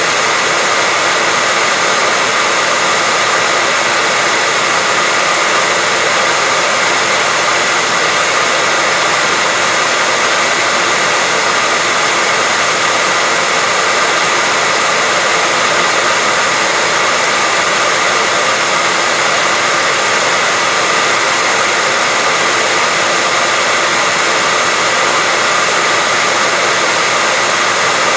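Hair dryer running steadily, a constant loud rush of air with a faint steady whine, unchanging throughout.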